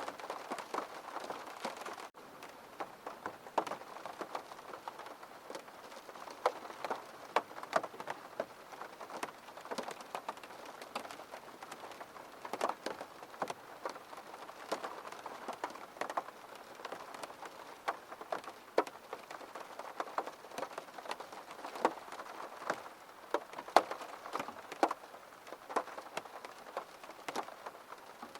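Rain falling on a window: a steady patter with many distinct drops ticking against the glass, broken for a moment about two seconds in.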